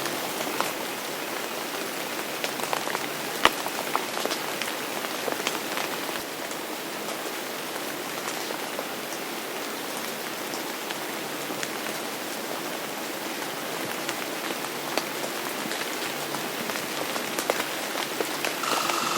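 Steady rain falling, with many separate drops ticking sharply on a surface; one drop hits loudest about three and a half seconds in.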